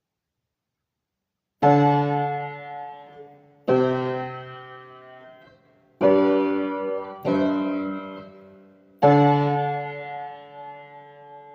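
Keyboard chords struck one at a time, five in all, each left to ring and fade before the next.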